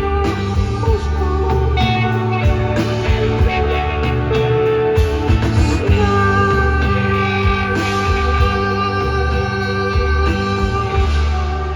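Live rock band playing: electric guitar and bass over drums, with sustained ringing guitar tones and regular drum and cymbal hits.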